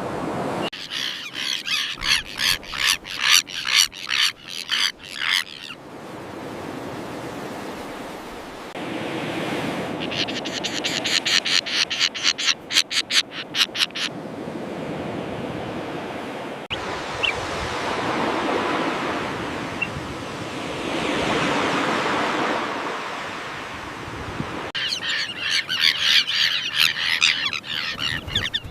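A colony of common terns calling in quick, harsh series of about four or five calls a second, in three bursts. Between the bursts, waves wash on the shore.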